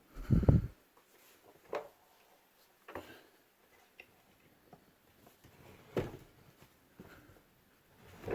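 Plastic body of a Bissell Helix upright vacuum being handled while its handle lock is tested: a heavy thump about half a second in, then a few scattered sharp plastic clicks and knocks.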